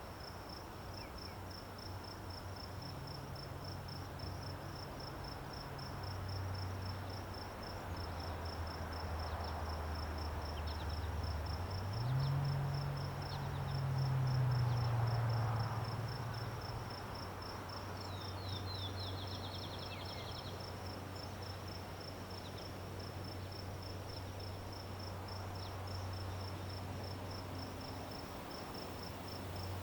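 A cricket chirping in a steady, rapid, evenly pulsed high trill, with a short faster trill about two-thirds in. Under it runs a low hum that shifts in pitch and swells around the middle.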